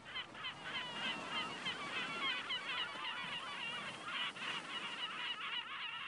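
Birds chirping rapidly and without pause, many short high calls overlapping.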